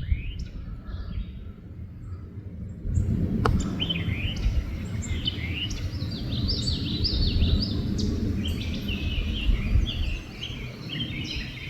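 Birds chirping: many short, quick calls that rise and fall, starting about three and a half seconds in, over a steady low rumble.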